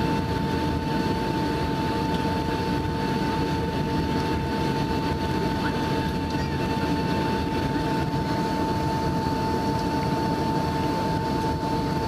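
Steady cabin noise of a Boeing 757-200 airliner in flight on its landing approach with flaps fully extended: the airflow and engine rumble with a steady whine over it.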